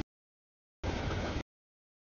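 Rumbling noise of a freight train rolling past, heard as a single clipped burst of about two thirds of a second, roughly a second in. It starts and stops abruptly between dead-silent gaps.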